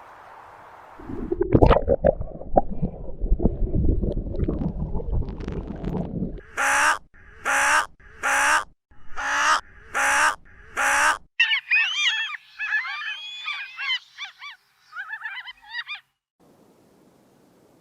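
A bird gives six loud calls in a row, about one a second, followed by a few seconds of quick high chirping and twittering. Before the calls there is a low, noisy clattering.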